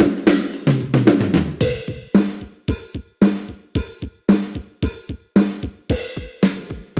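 Sampled drum hits from the Ketron SD90 SoundFont drum bank: a quick run of pitched drum strokes stepping down in pitch, then one pitched drum struck evenly about twice a second with lighter hits in between.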